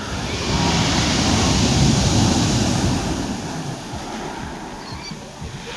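Black Sea waves breaking on the shore: one wave surges in about half a second in, peaks, and washes back out over the next few seconds.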